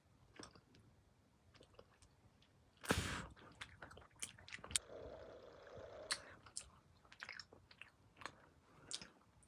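Close-miked crunching and clicking: one loud crunch about three seconds in, then many small sharp clicks and ticks.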